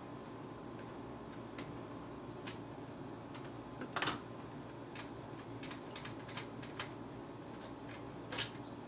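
Light metallic clicks and scrapes of a small screwdriver working a screw out of a PlayStation 3's internal metal casing, with two louder clicks about four seconds in and near the end.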